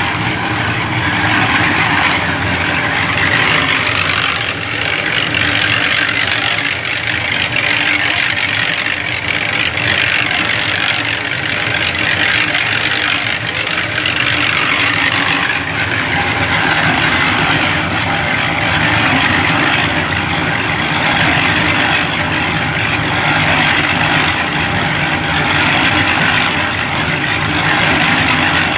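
An engine running steadily, with a constant noisy hiss over it.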